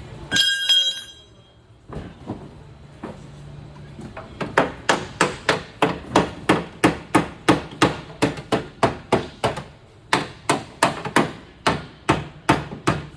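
Repeated hammer strikes on car-body sheet metal, about three blows a second with a brief pause partway, as a dent is worked out of a Subaru Crosstrek's rear quarter panel. A short high-pitched metallic ring sounds just before the hammering.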